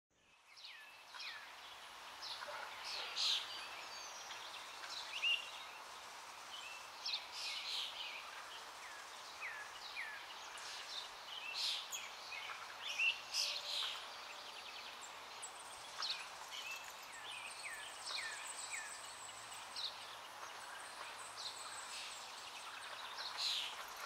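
Several birds chirping and calling, with short notes, some falling in pitch, scattered throughout over a faint steady hiss.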